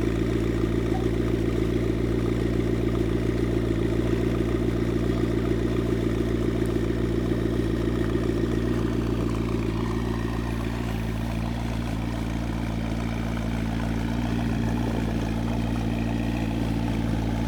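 Red McLaren supercar's engine running steadily at idle while the car moves at walking pace. About ten seconds in the note eases off a little and stays lower.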